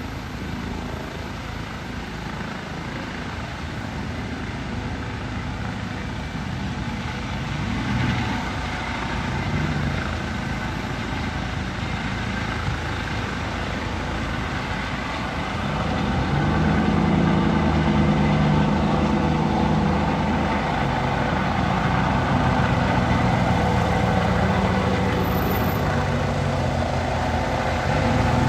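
Helicopter running, its rotor chopping steadily; it grows louder a little past halfway through.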